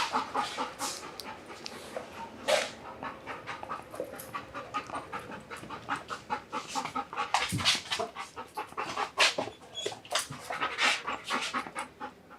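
Police K9 dog panting hard, a long run of quick breaths.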